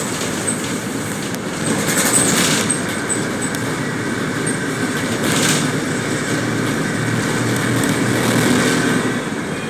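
Steady rumble of a moving vehicle, with brief high-pitched squeals about two seconds in and again about five seconds in.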